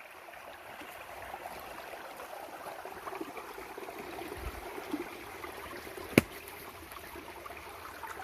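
A forest river babbling and trickling over rocks, steady throughout. A single sharp click sounds about six seconds in.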